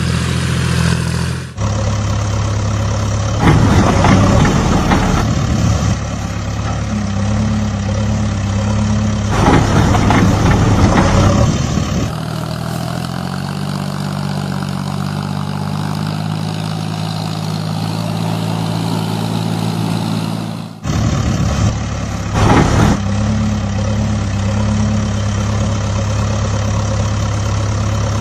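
Heavy vehicle engines running steadily, with three short louder bursts. The sound changes abruptly several times, as from one engine to another.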